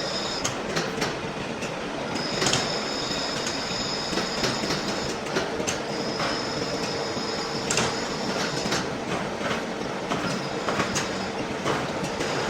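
Machine tool cutting a large steel shaft: steady machining noise with a high squeal of metal on metal that comes and goes several times, and scattered sharp clicks and knocks.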